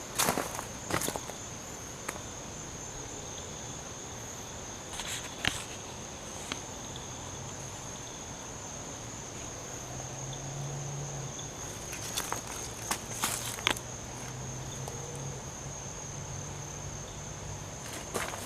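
Insects trilling steadily at one high pitch, with a few footsteps near the start, about five seconds in, and again around twelve to fourteen seconds in.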